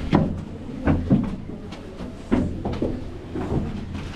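Several sharp knocks and thumps, about five in four seconds, over a steady low hum.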